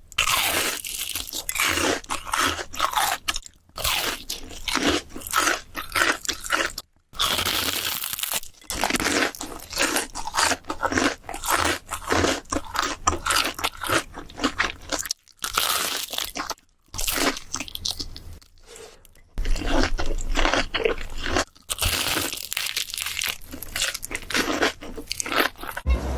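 Crunching and chewing of crisp food, dense and irregular, cut into short segments with a few sudden brief gaps.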